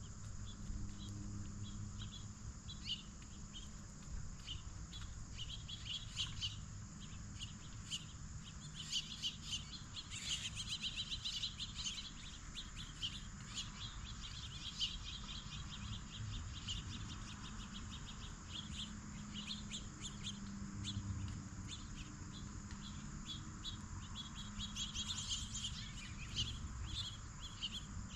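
Birds chirping with short, repeated high calls, in quick runs now and then, over a steady chorus of crickets and other insects.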